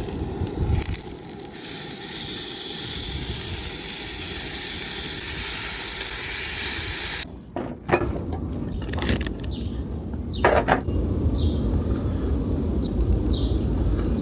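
Turkey bacon sizzling in a pan, a steady hiss that stops suddenly about seven seconds in. After it come scattered knocks and clatter over a low rumble.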